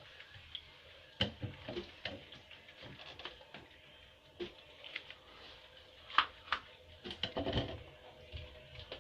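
Irregular light taps, clicks and scrapes from a cat and a turtle moving about at play, with a sharper knock about six seconds in and a short cluster of taps just after.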